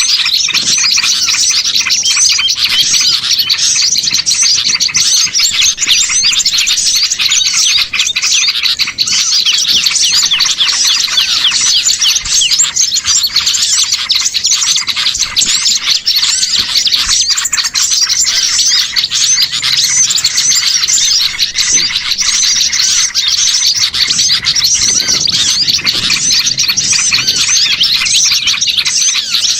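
A bird-lure recording of many small songbirds chirping at once: a dense, unbroken chorus of rapid high calls, made to draw wild small birds in. A faint lower call comes in about 25 seconds in.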